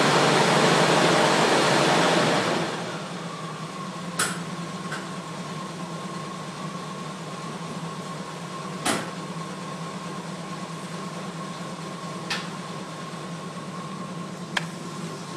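1980 Jeep CJ5 engine running just after a cold start in sub-zero weather: loud for the first two or three seconds, then settling to a quieter, steady idle. A few sharp clicks come now and then.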